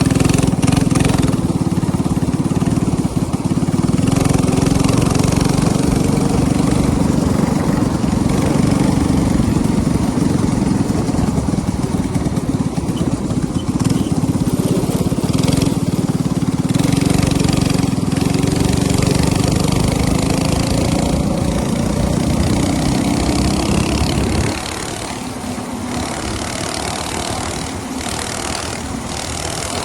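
Minibike's small engine running steadily under throttle, then dropping abruptly to a lower, quieter note about twenty-four seconds in, as if the throttle is let off to idle.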